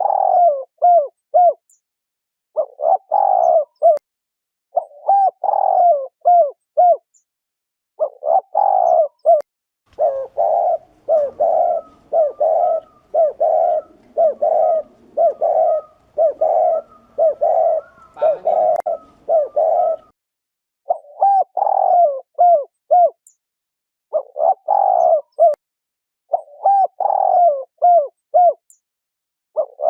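Spotted doves giving the 'gù' coo, repeated short phrases of a few rising-and-falling coos every couple of seconds, running almost back to back for several seconds mid-way. It is the cooing call used to rouse male doves and lure them to a trap.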